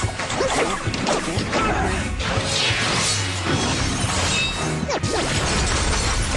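Cartoon action soundtrack: dramatic background music layered with crashing and smashing fight sound effects, hard hits and whooshes, packed densely together.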